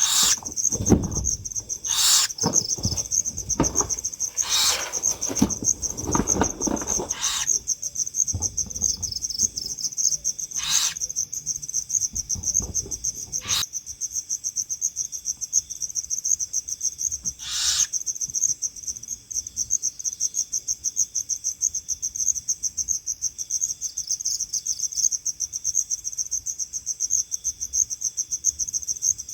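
Crickets chirping in a steady, rapid high trill throughout. Several short hissing bursts come in the first half, with one more a little past the middle, and there is low rustling early on.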